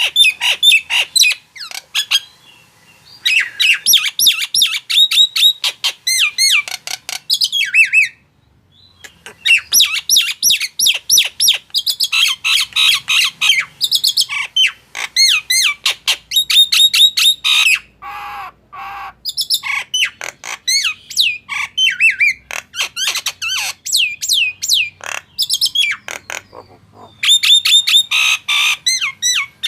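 Male jalak nias calling: rapid runs of sharp, falling whistled notes broken by short pauses, with a lower, harsher call about two-thirds of the way through. It is a lure recording meant to provoke and tutor other songbirds.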